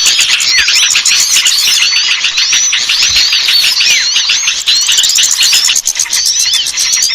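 Dense chorus of many small birds chirping and twittering over one another, fast rising and falling notes without a break: a bird-lure (pikat) recording used to call small birds down.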